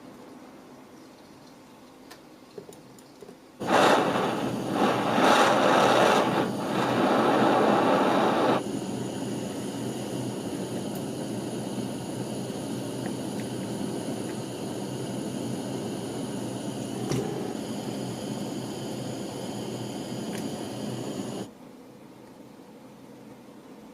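A small power-tool electric motor starts about four seconds in and runs loud and rough for about five seconds. It then settles to a steady, high whine for about thirteen seconds and stops suddenly near the end.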